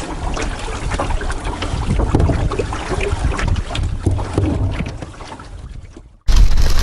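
Canoe being paddled, with water sloshing and wind buffeting the microphone, fading out near the end. Then a sudden cut to louder wind noise.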